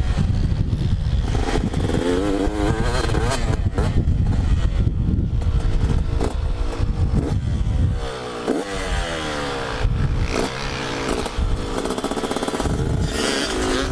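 Two-stroke motocross bike engine revving hard and rising and falling in pitch again and again as the rider works the throttle and gears around the track, with heavy wind buffeting on the microphone.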